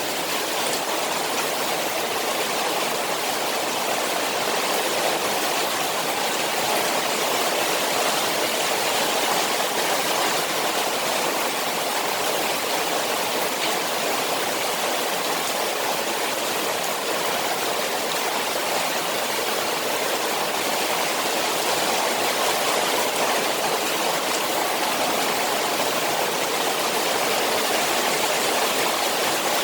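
Rain falling on a koi pond, heard as a steady, unbroken rush of water.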